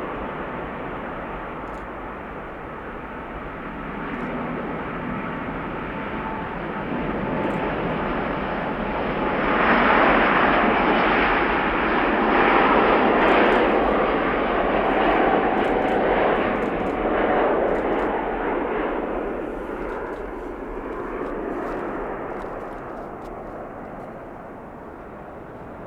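Jet airliner passing close by, its engine noise building to a loud peak about ten seconds in, holding for several seconds with a faint whine in it, then fading away.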